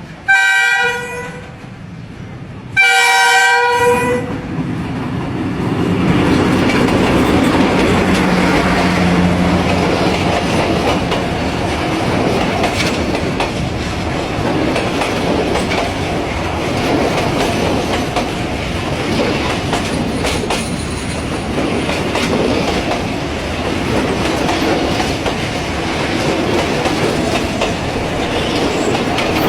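Train horn sounding two blasts, each about a second long, followed by the steady rumble of the train running on the track with its wheels clattering over the rails.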